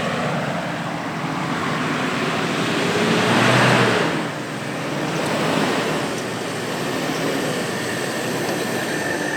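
Diesel 4x4 SUV engine working under load on a soft off-road trail, with a rushing noise over it. The sound swells to its loudest about three and a half seconds in, then eases.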